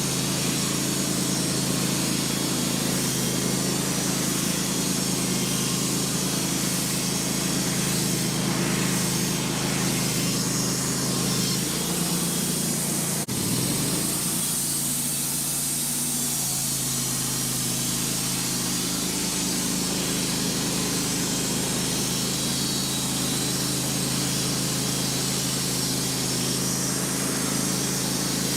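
Wood-Mizer LT15 band sawmill running steadily, its engine under load as the band blade cuts through a larch log, with a brief dip about thirteen seconds in.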